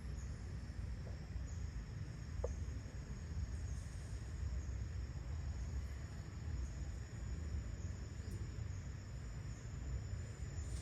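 Steady high insect chorus of crickets over a constant low rumble, with one brief faint chirp about two and a half seconds in.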